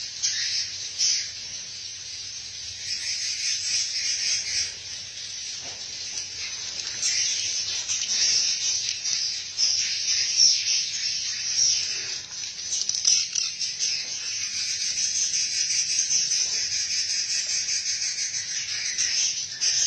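Many swiftlets twittering together, a continuous dense high-pitched chatter of quick chirps.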